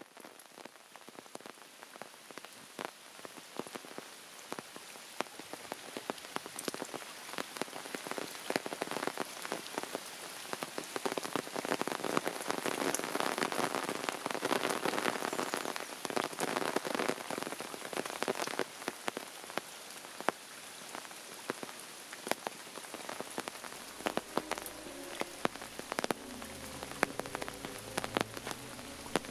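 Heavy downpour: steady rain with many sharp, close drop impacts, loudest around the middle. Music fades in near the end.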